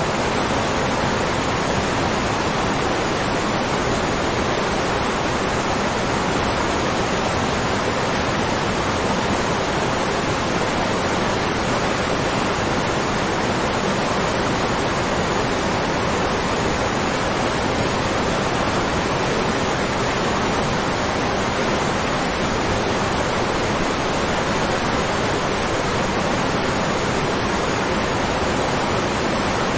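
Waterfall: water falling and churning in a steady, unbroken rush.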